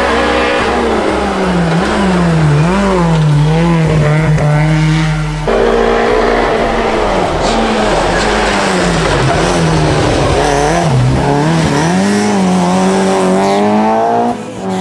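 Rally car engine under hard driving, its revs rising and falling repeatedly through gear changes and lifts. About five and a half seconds in, the sound cuts abruptly to another pass of the same kind, which ends with the revs climbing.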